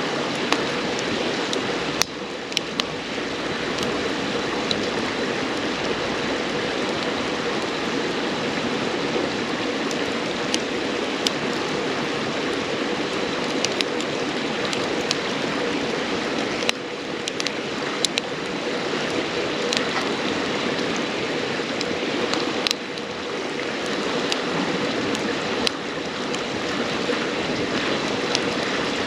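Steady rushing of a river, with sharp pops and crackles from burning firewood in a campfire scattered throughout.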